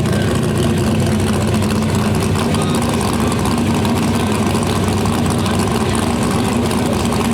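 A mini rod tractor puller's engine running loudly at a steady pitch.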